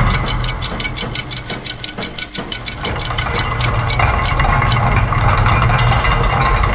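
Layered loops of factory machine sounds: a fast, even mechanical clicking of about six a second over a low machine hum. The low hum thins out about two seconds in and comes back fully about four seconds in.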